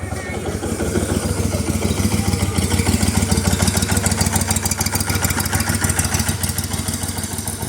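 Outboard motor of a powerboat running close by, a steady engine hum that grows louder about a second in and eases a little near the end.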